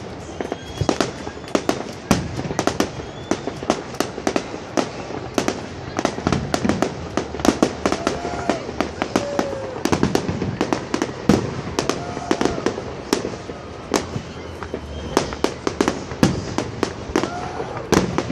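Aerial fireworks display with many shells going off together: a dense, irregular run of bangs and crackling reports, several a second.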